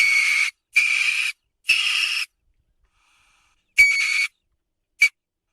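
A weasel's calls: four high, raspy squeals of about half a second each, then a short fifth one near the end.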